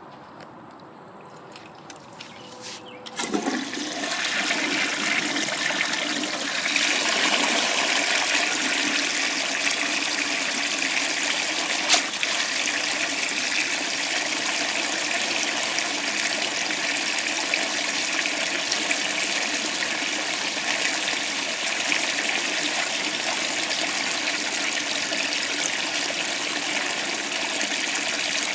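Standard Compton toilet flushing with 15 gallons of water: a clunk about three seconds in, then rushing water that builds and runs steadily as a long siphon. A single sharp click cuts through about midway.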